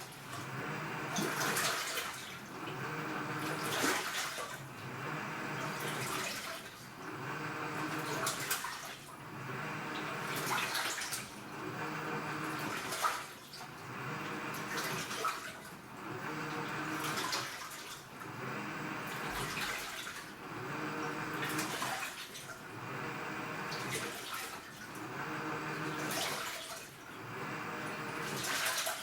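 AQUA top-loading washing machine agitating a load in water. Its direct-drive inverter motor swings the pulsator back and forth, so water and laundry slosh in even surges about every two seconds, each with a low motor hum.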